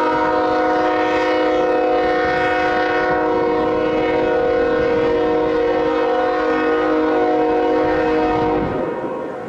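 Canadian Pacific ES44AC freight locomotive's air horn sounding one long, steady multi-note chord, cutting off near the end and leaving the lower rumble of the train.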